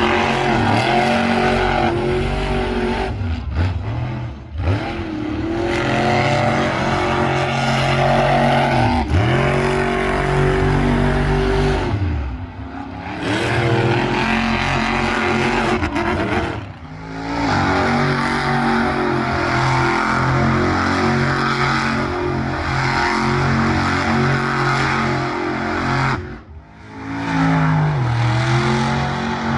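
Monster truck engines running at high revs, with the pitch swinging up and down as the throttle is worked. There are several short drops in the sound along the way.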